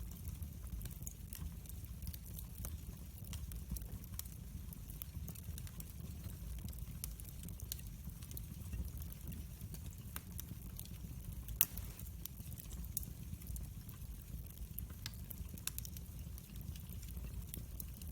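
Wood fire in a fireplace crackling: a low steady rumble with scattered sharp pops and snaps, the loudest a single crack a little past halfway.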